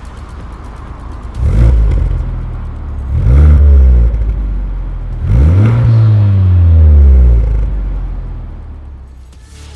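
Honda Civic Type R FK8's turbocharged four-cylinder engine through an aftermarket valved cat-back exhaust, revved three times from a low rumble. Each rev climbs quickly and then falls away; the last two are held for a second or two before dropping.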